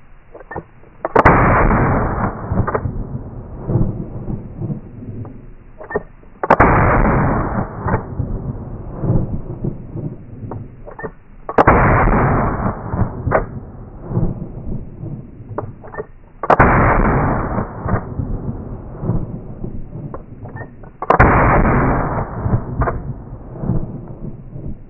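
Five slow, evenly paced shots from a Colt Trooper Mk III .357 Magnum revolver fired single action, about five seconds apart. Each loud crack is followed by a rolling echo that fades over a second or two, with fainter sharp cracks in between.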